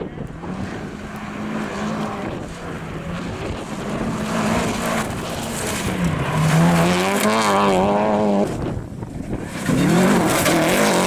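Rally car engine running hard on a gravel stage, its pitch rising and falling through gear changes. It is loudest a little past the middle, drops away suddenly, then revs up again near the end.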